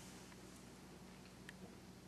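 Near silence: faint room tone with a steady low hum and one light click about a second and a half in.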